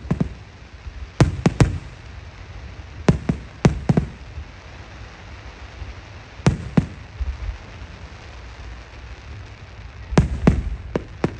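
Aerial fireworks shells bursting overhead: sharp bangs that come in groups of one to three every few seconds, with a low rumble between them, and a quicker run of several bangs near the end.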